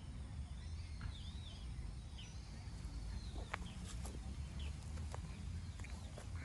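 Outdoor ambience: scattered short bird chirps over a steady low rumble, with a few light ticks.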